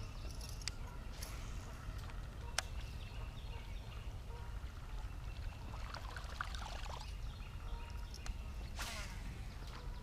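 Outdoor ambience on open water: a low steady background with birds singing in short trills and chirps, one call falling in pitch near the end. A few brief sharp clicks early on, and water trickling faintly.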